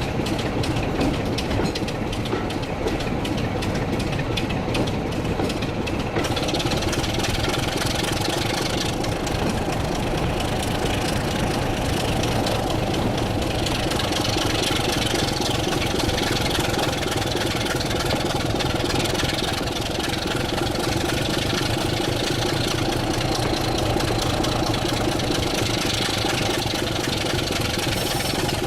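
Diesel locomotive engine running steadily at a low, even speed. Added hiss and clatter join in about six seconds in.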